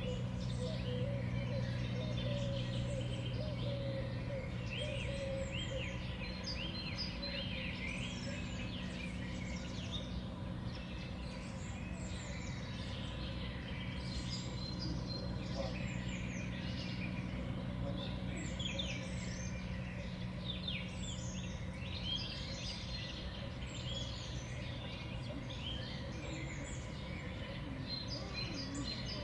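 Many small songbirds chirping and calling continuously at a winter feeder, with short overlapping chirps over a steady low hum that fades about two-thirds of the way through.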